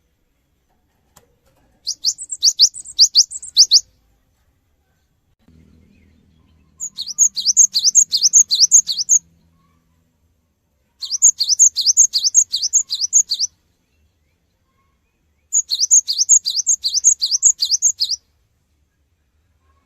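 Cinereous tit (gelatik batu) singing: four bouts of a fast, rolling string of high, downward-sweeping notes, about five a second, each bout lasting around two seconds with short pauses between.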